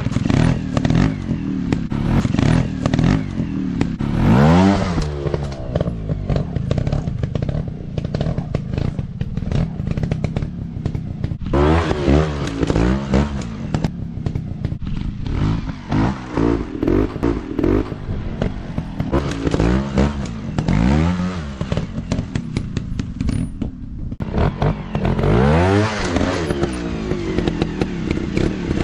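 Off-road motorcycle engines running and revving, the pitch surging up and falling back again and again as the throttle is opened and closed.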